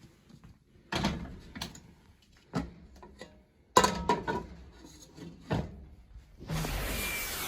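Kitchen handling sounds: a series of knocks and clatters like cupboard doors, drawers and dishes being handled. Near the end a steady rush like a running tap begins.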